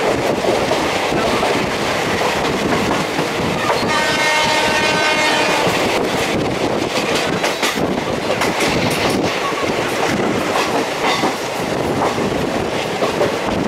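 Passenger train running on the ghat line, heard from aboard: a steady rush of wheels on rail with clacks over the rail joints, and a pitched tone lasting about two seconds around four seconds in.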